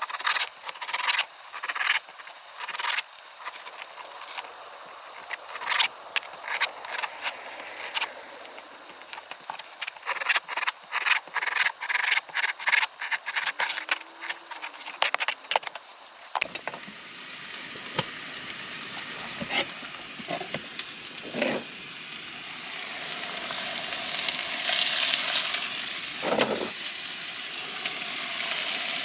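Fatty meat sizzling in a hot pan, a steady hiss with frequent crackles and pops as the fat renders. A little past halfway the sound changes abruptly to a duller sizzle with a few soft knocks.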